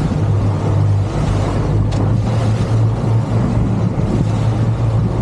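Boat engine running steadily at trolling speed, a low even hum with wind and water rushing over it.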